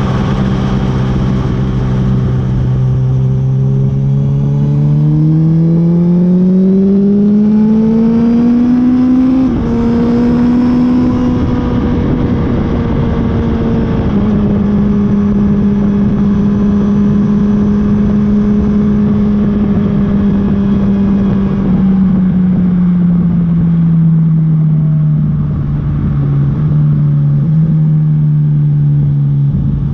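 Honda CB1000R's inline-four engine pulling hard with its pitch climbing, a quick drop as it shifts up, then holding a steady cruise. Near the end it eases off and the pitch falls, with a couple of small steps like downshifts, all over steady wind and road rush.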